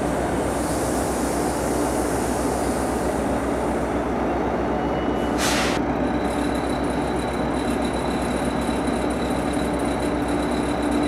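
NJ Transit diesel commuter train standing at the platform: its PL42AC locomotive and Comet V cars running with a steady hum. A short hiss of released air about five and a half seconds in.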